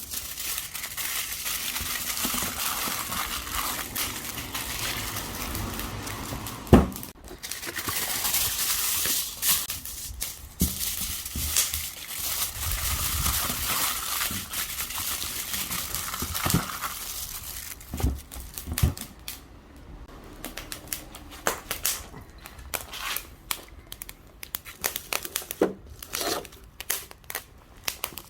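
Wrapping material being crumpled and torn: a dense crinkling for most of the first half, with a sharp click about seven seconds in, then sparser rustles and clicks.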